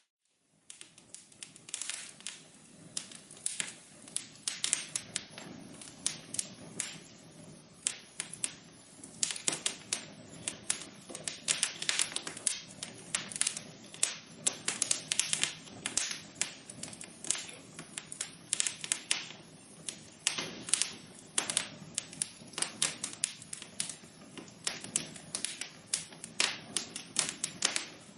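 Wood fire crackling: dense, irregular pops and snaps over a soft, steady hiss.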